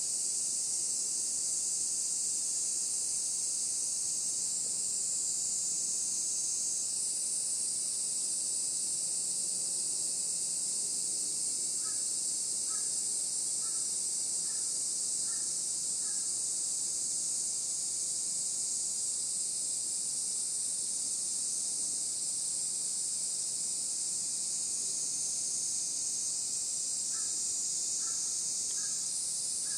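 Steady high-pitched chorus of insects shrilling without a break. A bird calls in a quick run of short repeated notes about halfway through and again near the end.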